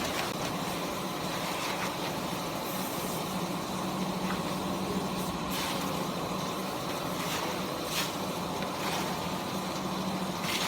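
DG20 double-cylinder vertical cardboard baler running: its hydraulic pump unit gives a steady hum under a noisy mechanical wash, with a few faint clicks along the way.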